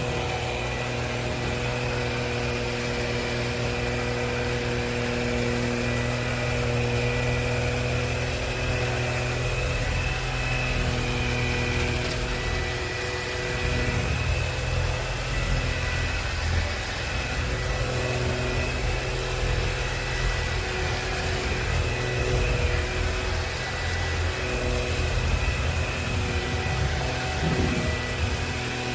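Bissell PowerClean FurGuard cordless stick vacuum running steadily, its motor giving a continuous hum with a high whine on top, the lower rumble shifting a little as it is moved.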